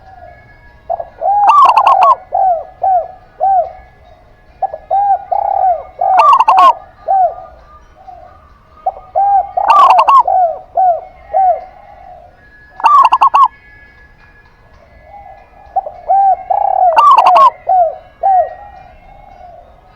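Zebra doves and spotted doves cooing. They call in phrases of several quick rounded notes, each phrase with a louder, sharper call in it, and the phrases repeat every three to four seconds.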